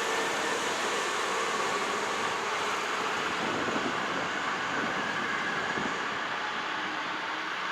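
Hankyu Kyoto Line resistor-controlled electric train running, a steady rushing noise that slowly fades.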